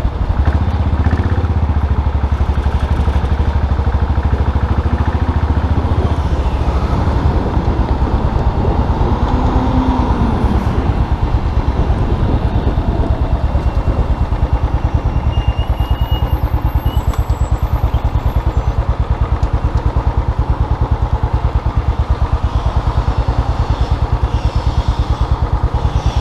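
Custom classic motorcycle engine running steadily, its firing pulses even throughout with no revving up or down.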